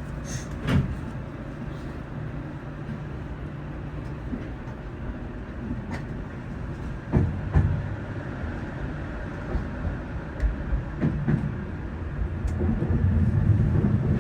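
Keio Inokashira Line 1000-series electric train running, heard inside the car: a steady low rumble from the wheels and running gear, with a few short knocks, getting louder near the end.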